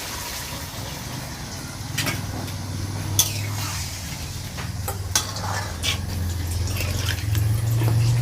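Kitchen work: water running or being poured, with a few sharp clinks of utensils against pots. A low hum builds from about two seconds in.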